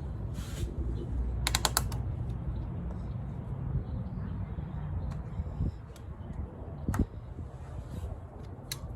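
Hand tools working on radiator hoses and clamps: a quick run of ratchet clicks about one and a half seconds in, then scattered metallic clicks and a sharp knock near the end, over a low background rumble.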